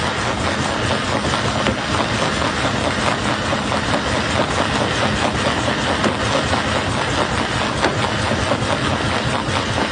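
Jaw crusher running, a steady loud mechanical din with stone crunching and clattering through it in many small irregular knocks over a low engine drone.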